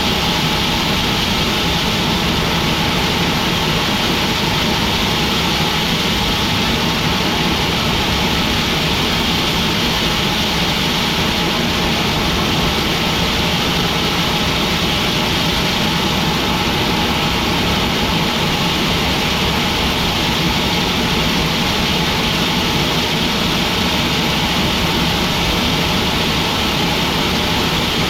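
Sawmill machinery running steadily, a loud constant engine-like drone with a hiss that does not change.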